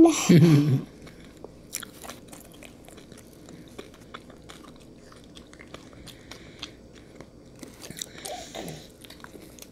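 Several people chewing marshmallow Peeps candies: soft, sticky mouth clicks and smacks. A short, louder vocal sound falling in pitch comes right at the start.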